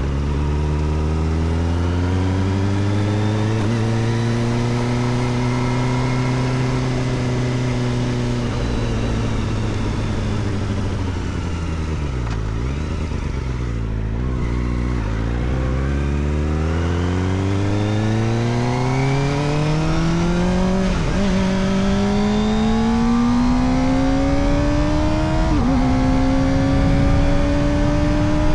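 Kawasaki Ninja ZX-4RR's 399 cc inline-four engine, heard through an Arrow Indy Race Evo titanium exhaust with the dB killer fitted. The revs hold steady and then fall away as the bike slows around the middle. They then climb again through the gears, with two quick upshifts near the end.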